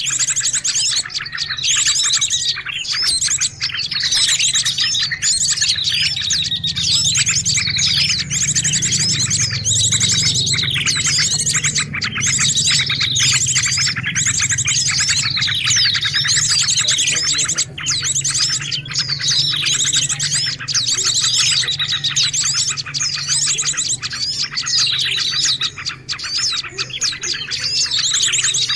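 A dense, unbroken chorus of many small songbirds chirping and twittering over one another in rapid trills: a bird-luring (pikat) call recording. A low steady hum runs underneath.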